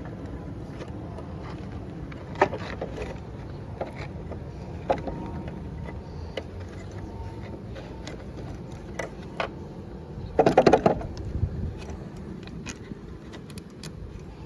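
Scattered small metal clicks and knocks as carburetor parts and gasket are handled and fitted back onto a lawnmower engine, with a brief loud clatter about ten seconds in, over a steady low background rumble.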